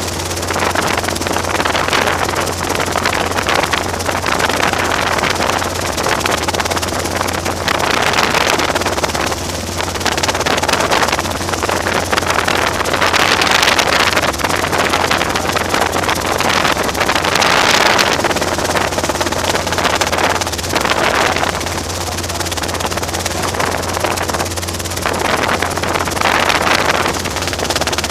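Robinson R22 helicopter running in flight: a steady low drone from engine and rotors under a rushing noise that swells and fades every few seconds.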